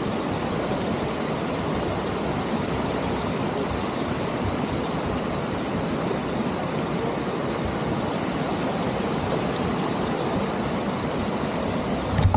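Steady rushing wind noise on an action camera's microphone during a bicycle ride, mixed with the rolling noise of the bike on the trail.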